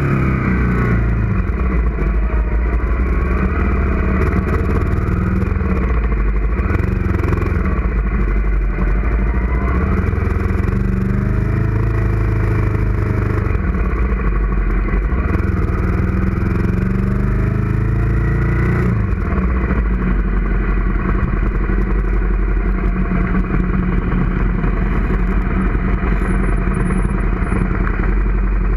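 Suzuki SV650's 90-degree V-twin engine at low speed, its pitch rising and falling several times with the throttle. From about two-thirds of the way in it settles to a steady idle as the bike comes to a stop.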